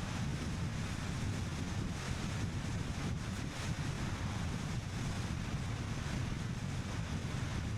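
Steady road noise of a car driving: tyre rumble on asphalt and wind rushing over the action camera's microphone, with no change in pace.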